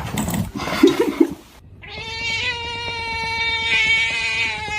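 A short spell of mixed noise, then a cat's single long, level yowl, held about four seconds.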